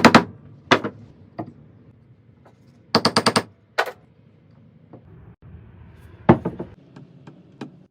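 Sharp knocks and taps on a hard surface, some single and some in quick clusters, including a fast run of about seven strikes in half a second about three seconds in.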